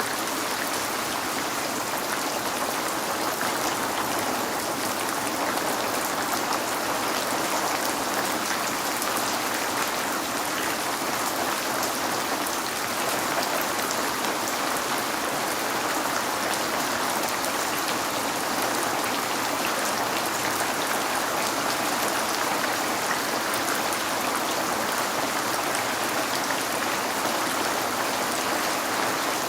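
Steady rain falling on a window: an even hiss of rainfall with scattered small taps of single drops.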